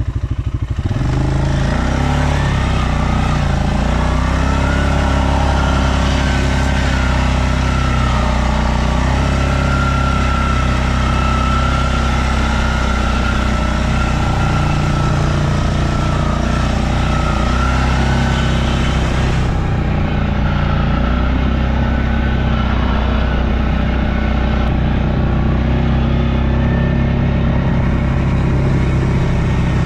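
Stels Leopard 650YL quad bike engine running steadily under load while driving through snow. Its pitch rises about a second in, then holds.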